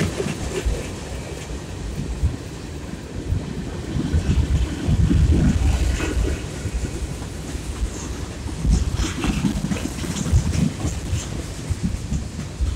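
Freight cars of a passing train rolling by: a steady low rumble of steel wheels on rail, with clusters of sharp clacks about nine seconds in and again near the end as wheels cross rail joints.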